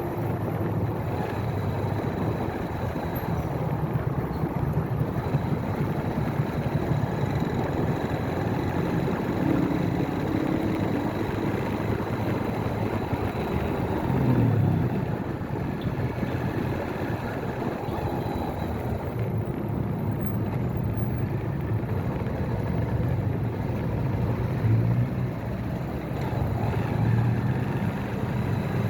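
Motorcycle engine running while riding, over steady wind and road noise, its note swelling and rising briefly about halfway through.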